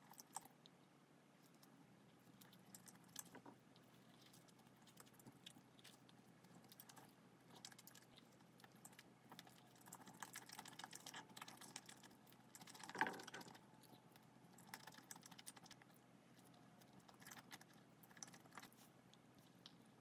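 Faint, close-miked chewing of a soft filled twisted doughnut: small wet mouth clicks and crackles, with one brief louder mouth sound about thirteen seconds in.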